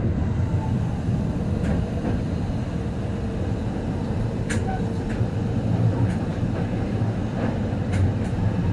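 Keihan 800 series electric train running, heard from inside the front of the car: steady low running noise from wheels and motors, a faint steady hum through the first half, and a few sharp clicks from the track.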